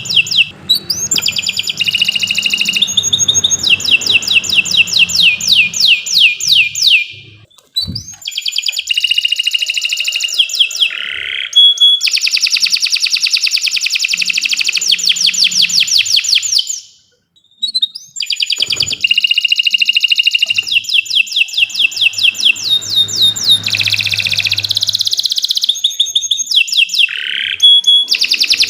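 Domestic canary singing: long, fast trills and rolling phrases in a high register, broken by two short pauses.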